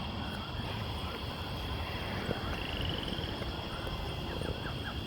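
Steady outdoor background noise with short animal chirps: a quick trill about two and a half seconds in and a run of brief chirps near the end.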